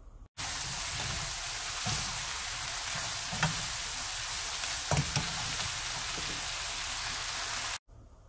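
Oyster mushrooms and julienned vegetables sizzling in a hot frying pan as they are stir-fried, with a few sharp knocks of the utensil against the pan. The sizzle starts and cuts off suddenly.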